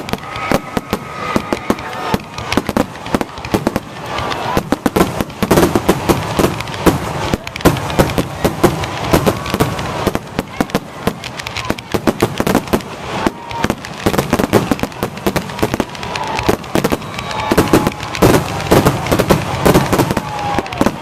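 Aerial fireworks shells bursting in a rapid, dense barrage, bang after bang several times a second with little pause.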